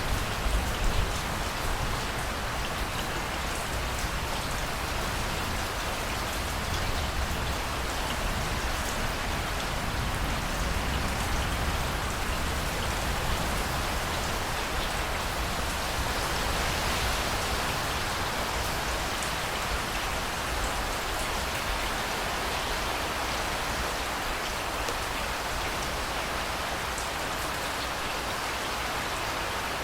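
Steady heavy rain falling, an even patter with scattered drop ticks, over a low rumble.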